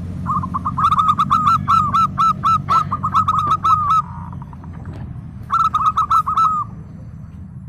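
Zebra dove song: two runs of rapid staccato cooing notes, about eight a second. The first lasts nearly four seconds and the second about a second, over a steady low hum.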